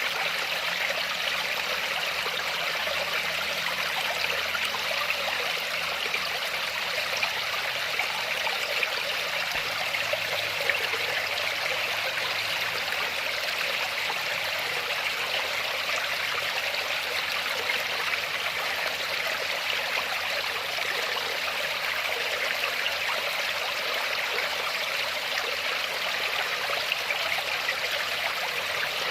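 Waterfall's water rushing and splashing in a steady, unbroken hiss, mostly in the middle and upper range with little deep rumble.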